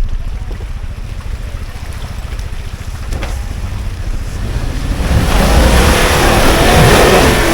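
An off-road Land Rover working at a rutted climb, its low rumble mixed with wind on the microphone. About five seconds in, a louder, even rushing noise swells up as the vehicle drives or spins its wheels on the dirt.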